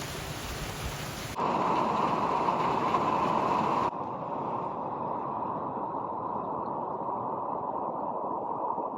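Heavy rain falling steadily. The sound jumps abruptly about a second and a half in, getting louder and duller, then drops back to a softer, duller rush near four seconds in.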